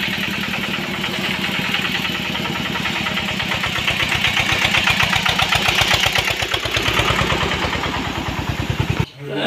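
Vehicle engine idling steadily with a regular low pulse, growing a little louder in the middle and stopping suddenly near the end.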